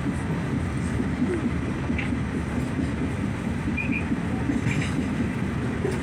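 New York subway train running: a steady low rumble, with a few short high wheel squeaks about four and five seconds in.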